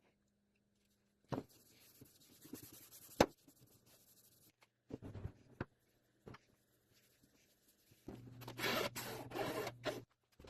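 Hand rubbing and scraping strokes across a foam surfboard blank, in separate stretches, the longest and loudest near the end, with one sharp click a little after three seconds in.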